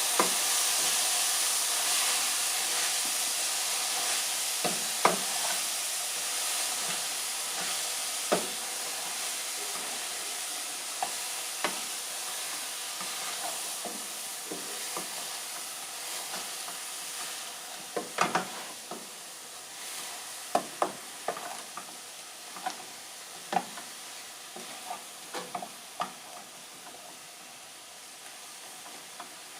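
Sliced cabbage with capsicum and spices stir-frying in a pan: a steady sizzle that slowly fades, with scattered sharp clicks and scrapes of the stirring utensil against the pan, more frequent in the second half.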